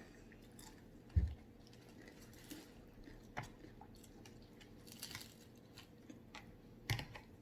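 Mouth sounds of eating close to the microphone: chewing with scattered small clicks, and a dull thump about a second in.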